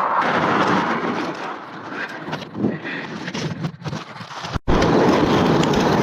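Strong wind rushing over the microphone while riding, mixed with road noise. It cuts out briefly about four and a half seconds in, then comes back as a louder, steadier rush.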